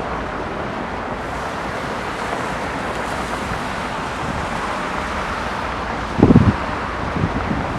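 Wind blowing across the microphone over a steady rushing background of distant traffic and jet noise, with a loud gust buffeting the microphone about six seconds in and a few smaller ones after it.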